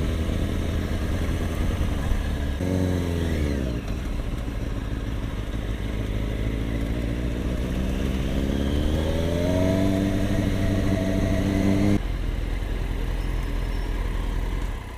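Sport motorcycle engine running under way. Its pitch rises and falls about three seconds in, climbs again from about nine seconds and holds, then drops abruptly near twelve seconds to a steady lower note.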